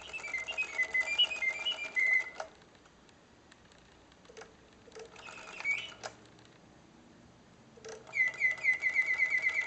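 Reuge double singing bird cage automaton whistling its mechanical birdsong. A warbling phrase stops about two seconds in, followed by a pause of several seconds with a few faint clicks and one short chirp, which is the cage's pause feature between songs. A fast trill of repeated notes starts near the end.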